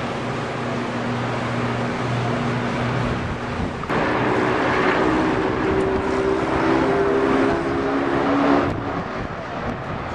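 An engine running steadily with a low hum; about four seconds in it turns louder and higher-pitched, then drops back near the end, over a steady haze of outdoor noise.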